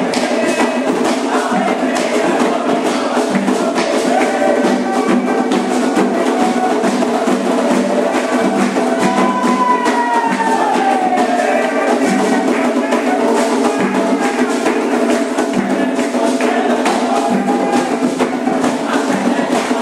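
Candomblé ritual chant: voices singing over hand percussion that keeps a steady, regular beat.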